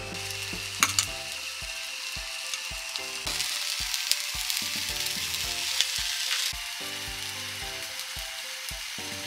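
Food sizzling and frying on a griddle, a steady hiss that grows louder for about three seconds in the middle, over background music with a steady beat.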